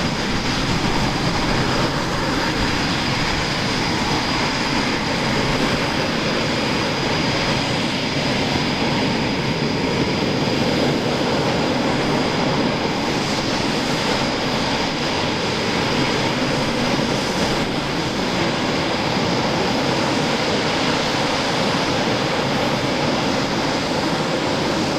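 Eurofighter Typhoon's twin EJ200 turbofan engines running steadily: a broad, even roar with a constant high whine on top.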